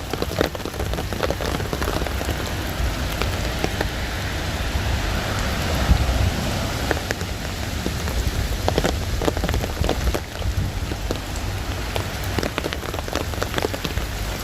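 Hail falling with rain: a steady hiss full of sharp, scattered ticks of ice pellets striking hard surfaces.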